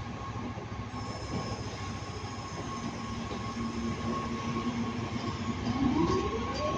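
Electric train pulling away from the platform: a steady low hum, then about five and a half seconds in several rising whines climb in pitch as it accelerates.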